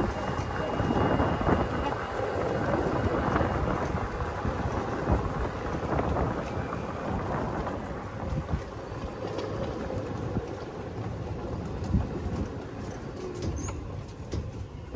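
Wind buffeting the microphone over the steady rumble of a moving vehicle's engine and road noise.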